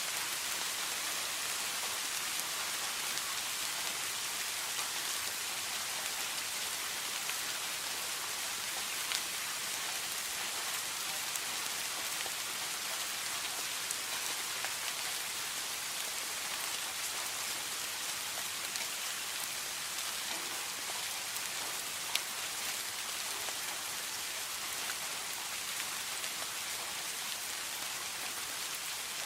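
Steady rain falling: a dense, even hiss with a few single louder drops ticking out of it now and then.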